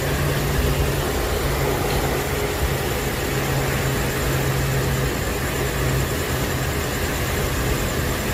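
A vehicle engine idling with a steady low hum under a constant wash of road noise.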